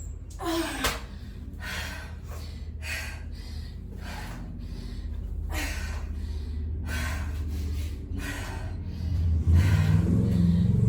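A person breathing hard during exercise, a quick run of sharp exhales and gasps. A low hum grows louder near the end.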